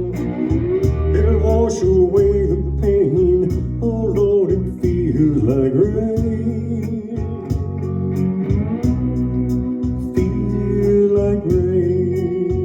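Blues band music: a guitar plays a lead line with notes that bend up and down over a sustained bass.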